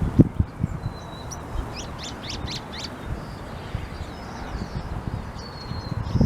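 Songbirds calling and chirping, with a quick run of down-slurred notes about two seconds in and thin, level whistles. A low rumble runs beneath, with heavy low thumps at the start and near the end.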